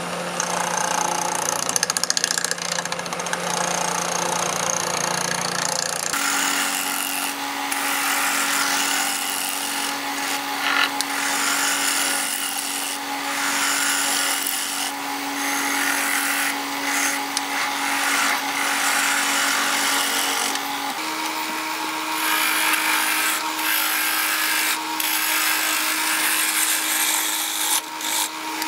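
Wood lathe running while a turning tool cuts a maple blank, truing it round, with a steady rasping cutting noise that briefly eases off now and then. The lathe's motor hum steps up in pitch about six seconds in and again about twenty-one seconds in.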